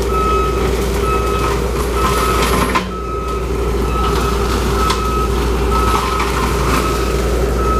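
Bobcat loader with a forestry cutter attachment running loud and steady while its backup alarm beeps about once a second as the machine reverses, with scattered clicks and knocks.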